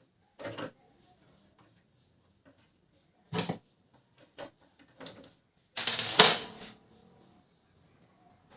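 Scattered clicks and knocks of Canon LBP 2900 laser printer parts being handled and fitted, with a louder clattering rattle about six seconds in.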